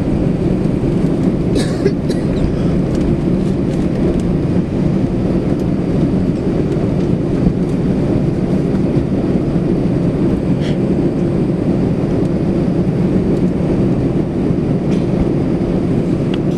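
Steady low rumble and hum inside the cabin of an Airbus A320 taxiing on the ground after landing, with a few faint clicks and rattles.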